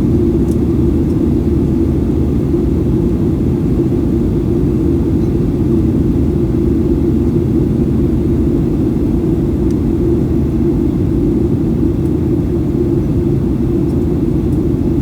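Steady loud drone inside the cabin of a Boeing 737-800: the CFM56-7B engines and airflow, a deep even rumble that holds level with no change in pitch.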